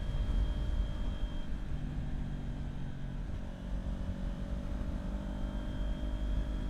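Kawasaki Ninja 400's parallel-twin engine running steadily while riding, with low wind rumble on the microphone; the engine note climbs slightly about halfway through.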